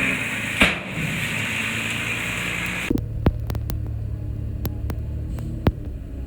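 Heavy machinery's diesel engine running with a hiss. About three seconds in the sound changes abruptly to a lower, steady engine hum broken by several sharp clicks.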